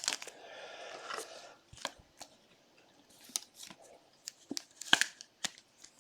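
Trading cards and their packaging being handled by hand: a second-long rustle and slide near the start, then scattered light clicks and taps.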